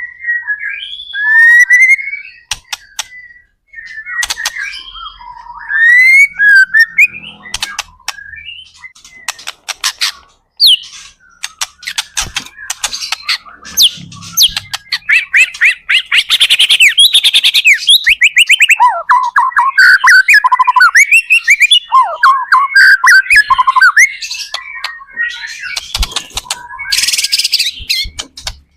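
White-rumped shama singing a loud, continuous, varied song: gliding whistles, rapid trilled runs and sharp clicking notes.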